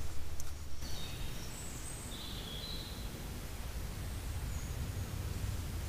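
Woodland ambience: a few short bird chirps, starting about a second in, over a steady low background rumble.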